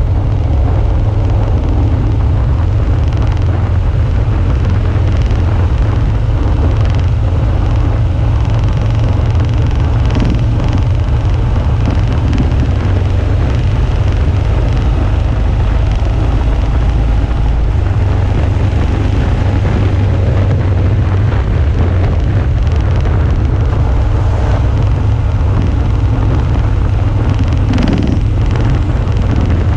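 Steady, loud wind rumble on an action camera's microphone while riding a Suzuki V-Strom 650, with the motorcycle's V-twin engine running underneath.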